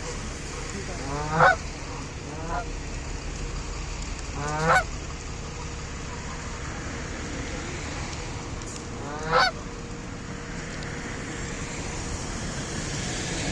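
Canada goose honking: three loud honks a few seconds apart, each rising in pitch, with a fainter honk shortly after the first, over a steady low background noise.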